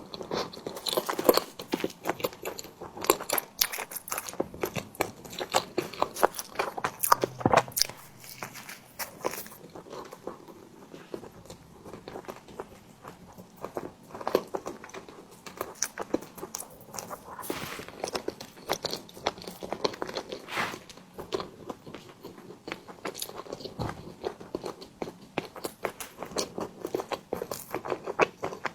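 Close-miked eating of a tiger skin dessert: repeated bites and chewing, full of small wet mouth clicks and crackles at an irregular pace.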